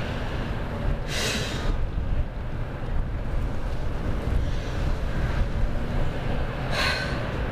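Steady low outdoor rumble, with two short bursts of hiss: one about a second in, one near the end.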